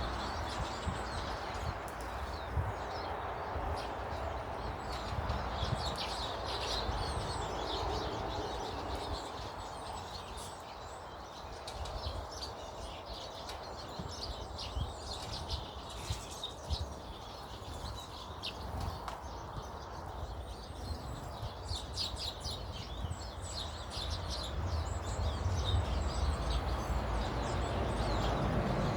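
Garden birds chirping: many short, high calls overlapping, over a steady low background rumble.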